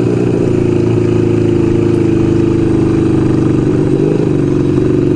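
1975 Kawasaki KZ400S's parallel-twin engine running at a steady pace while being ridden, its pitch wavering briefly about four seconds in.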